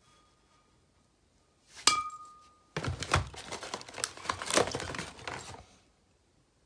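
Cookware or utensils being handled: one sharp clink about two seconds in that rings briefly, then about three seconds of clattering and rustling.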